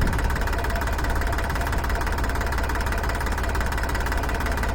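Tractor diesel engine running steadily at a constant speed, with a rapid, even knocking beat.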